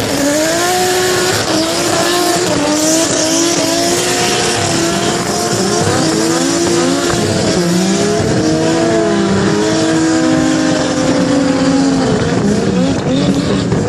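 Car engine revving hard at the limit, its pitch rising and falling over and over, with tyres squealing under wheelspin during a burnout.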